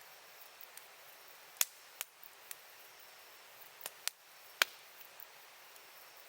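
Campfire wood burning, with a faint steady crackle and about six sharp pops as the burning wood cracks, the loudest a little past halfway.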